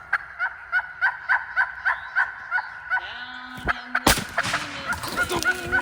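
Turkey yelping in an even run of repeated notes, about three or four a second, cut across about four seconds in by a single sharp report, typical of a shotgun shot.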